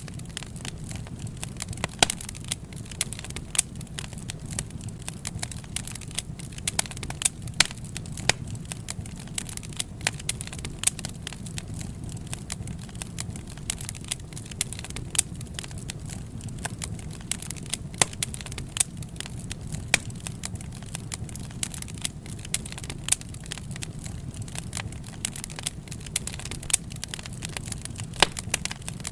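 Wood fire crackling: frequent irregular sharp pops and snaps over a low steady rumble of burning.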